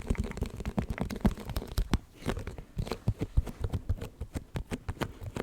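ASMR gripping trigger: hands gripping and releasing an object close to the microphone, giving dense, irregular, tacky crackling and clicking.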